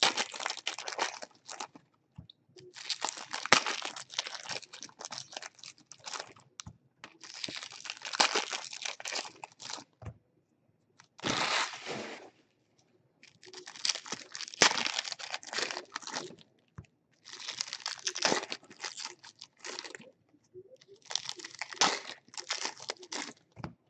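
Plastic wrapping of trading card packs or boxes being torn open and crinkled by hand, in about seven bursts of a second or two each with short pauses between them.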